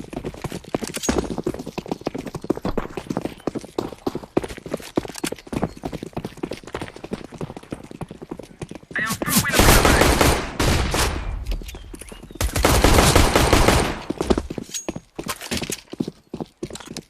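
A horse's hooves clip-clopping in a rapid, irregular run of knocks. Two loud rushing bursts, each lasting about a second and a half, come just past the middle, a short gap apart.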